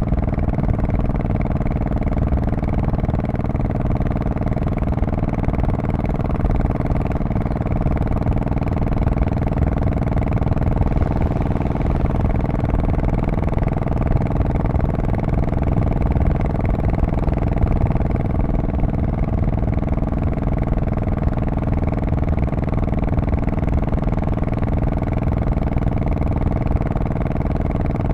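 Honda Shadow Spirit VT1100C's 1,100 cc V-twin exhaust running steadily at an unchanging engine speed, with no revving.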